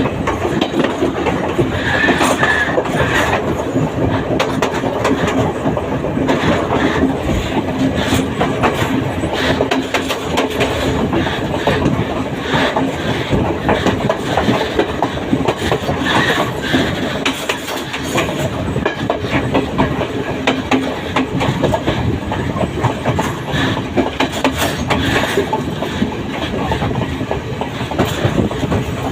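Train running steadily, its wheels clattering over the rail joints in a continuous clickety-clack over a dense rumble.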